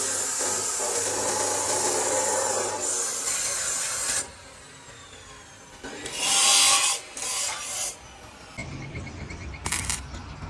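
Rasping, scraping hand-tool work, loud for about four seconds, then a short loud burst and a lower, rougher stretch of workshop noise with a sharp click near the end, each starting and stopping abruptly.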